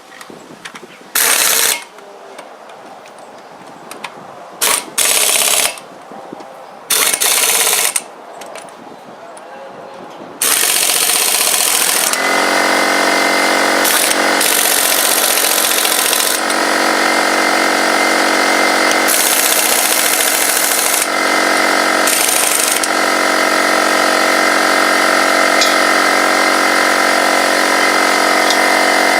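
A power tool run in several short bursts, then a machine that starts about ten seconds in and runs continuously with a steady pitched hum.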